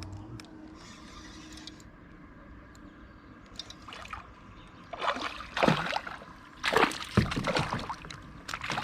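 Water splashing close by in several loud, irregular bursts starting about five seconds in, after a quiet stretch of lapping water.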